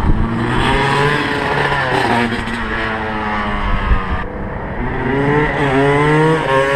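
Honda CR250 two-stroke single-cylinder motocross engine revving, its pitch climbing over the first two seconds, dropping back, then climbing again in the second half.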